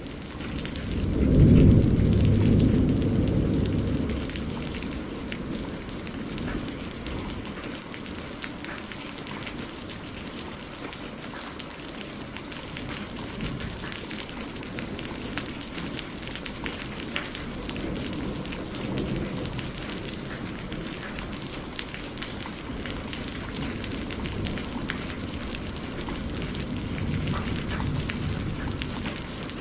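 Steady rain with a fine crackling patter, and rolling thunder: a loud low rumble swells about a second in and dies away over a few seconds, with fainter rumbles later on.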